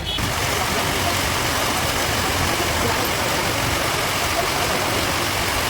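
Road traffic on a rain-soaked street: vehicle engines running under a loud, steady rushing noise.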